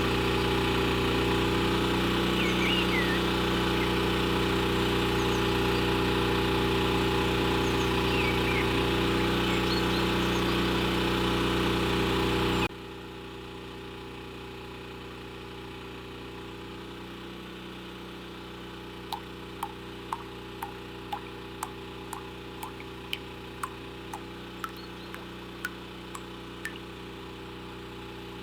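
Small electric motor of a homemade miniature juice-processing machine running with a steady hum. It cuts off abruptly a little under halfway through, leaving a fainter steady hum, and a string of short, sharp ticks, about two a second, comes in near the end.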